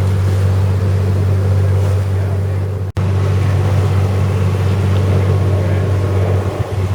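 Boat engine running with a steady low drone, with a haze of water and wind noise over it. All the sound cuts out for an instant about three seconds in.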